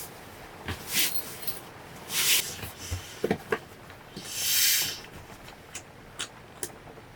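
Short rustles and small knocks at irregular moments, the loudest a longer rustle or swish about four and a half seconds in.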